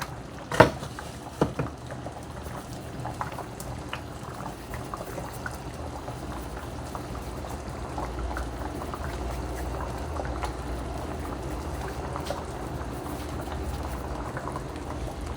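Pot of soup boiling, a steady bubbling with small pops. There are two sharp knocks about half a second and a second and a half in.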